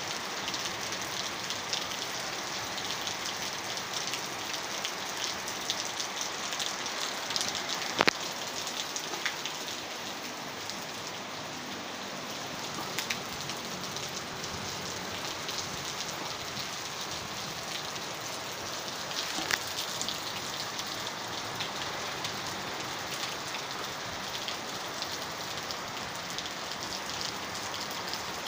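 Heavy rain falling steadily, a continuous hiss with close drops ticking on a nearby surface. A sharper knock stands out about eight seconds in, and another around twenty seconds.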